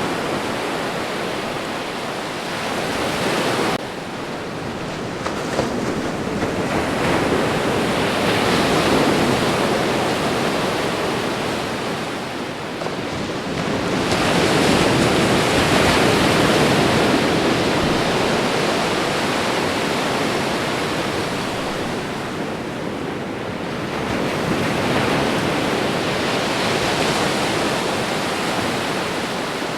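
Ocean surf: waves breaking and washing up the shore as a continuous rush of noise. It swells and fades in several slow surges, loudest about halfway through.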